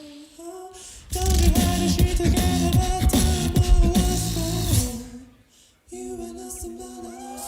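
Beatbox tag team performing a cappella: deep beatboxed bass and vocal percussion under a sung melody. It breaks off about five seconds in, then a quieter sung phrase of held notes comes back in.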